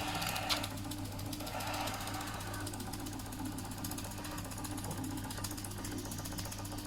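Doll & Co 339/2 stationary model steam engine, fired by a methylated-spirit burner, running smoothly at a steady, even rhythm with a light mechanical clatter of its moving parts.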